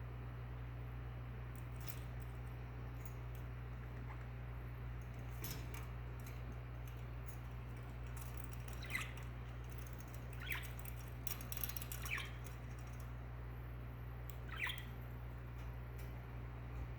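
Budgie giving four short, high chirps that slide downward, spread through the second half, with a few faint clicks, over a steady low hum.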